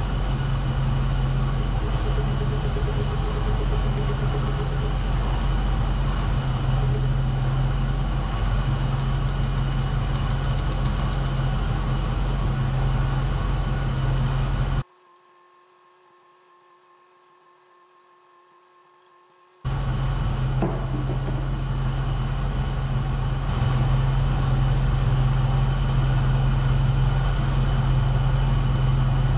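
Chevrolet 305 V8 idling steadily and evenly. About halfway through the sound drops out for about five seconds, leaving only a faint hum, then the idle resumes.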